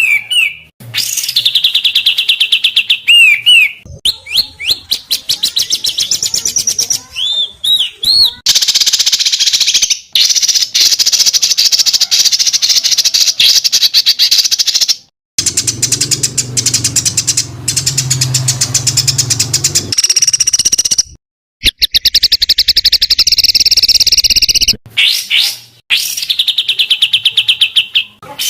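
Songbird song from a bird-training tutor recording: dense, rapid-fire trills and harsh chattering phrases, with a few short swooping whistles, broken by a couple of abrupt cuts between phrases.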